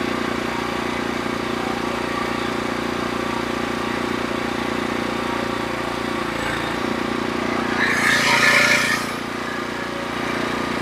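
Portable bandsaw sawmill's engine running steadily, with a slight change in its sound about six and a half seconds in. A brief, louder noisy burst lasting about a second comes about eight seconds in.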